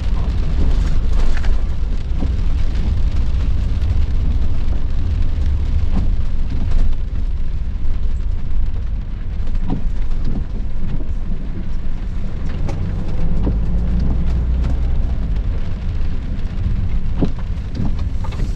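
Rain pattering and ticking on the windshield of a motorhome driving through a rainstorm, over a loud, steady low rumble from the moving vehicle.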